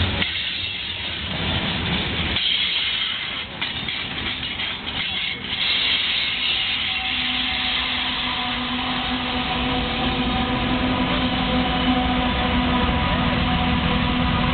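Union Pacific freight train rolling past close by, wheels rumbling and clattering on the rails under the covered hoppers. From about six seconds in comes the steady drone of the train's ES44AC diesel-electric locomotives passing.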